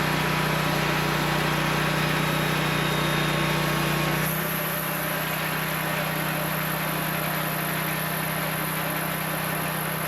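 Engine of a homemade sawmill running steadily. About four seconds in, the deep hum drops somewhat and a high whine grows stronger, then holds steady.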